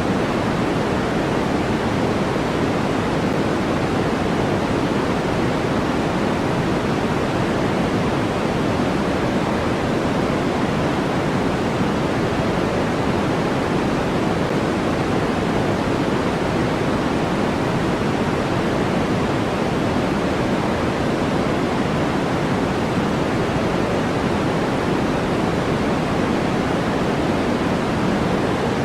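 Steady generated noise of a white-noise sleep track: a constant, even hiss with no changes, fuller in the lower pitches than in the highs.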